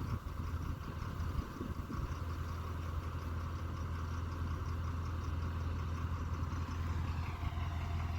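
Farm vehicle engine running steadily at a constant speed, a steady low hum.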